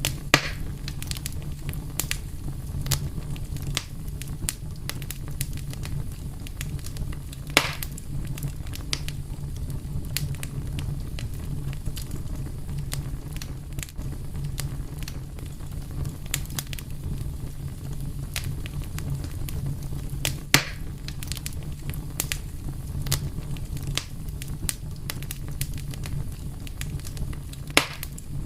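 Wood fire burning with a steady low rumble and scattered crackles, with a few louder pops, one about a third of the way in and another near the end.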